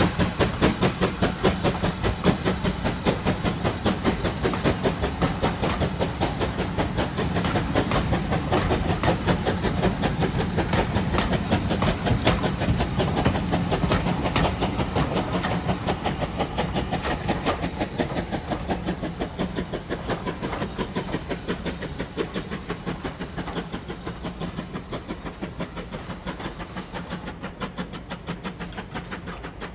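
GWR 5600-class 0-6-2 tank engine 5619 running with a train, a fast, even rhythm of beats over a steady hiss, gradually fading over the second half.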